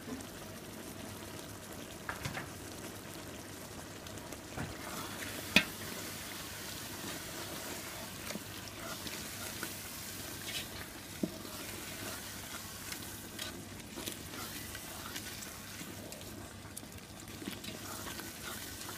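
Thick spiced onion-tomato masala sizzling in a pan as it is stirred, with scraping and scattered sharp knocks of the utensil against the pan, the loudest about five seconds in.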